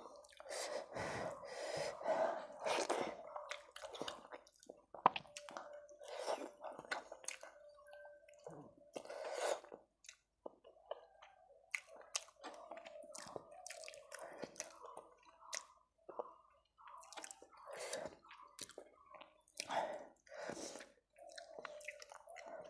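Close-up chewing and wet mouth sounds of a person eating rice and fish curry, in short irregular bursts, with soft squishing of rice being mixed by hand on the plate.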